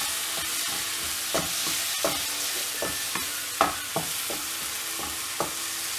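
Thick onion-tomato masala with ground spices sizzling in oil in a nonstick kadai as a wooden spatula stirs and scrapes it. The spatula knocks against the pan a few times.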